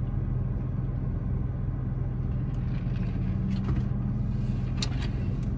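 Steady low hum of a car's engine idling, heard from inside the cabin, with a few faint clicks in the second half.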